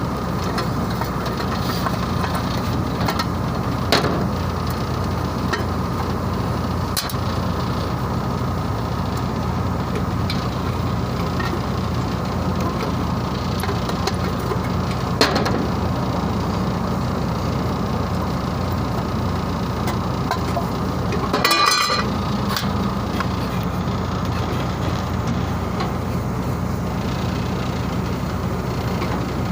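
Steady hum of running machinery, with a few sharp metallic clinks and a short metal clatter about three-quarters of the way through.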